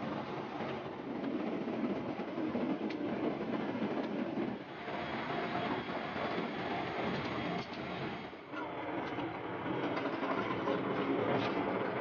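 Economy-cabin noise of a Boeing 777-300ER in motion: a steady rushing rumble with scattered rattles and knocks.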